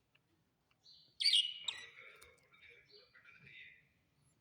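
Small pet birds chirping: a loud burst of high chirps about a second in, then softer, broken chirping that dies away.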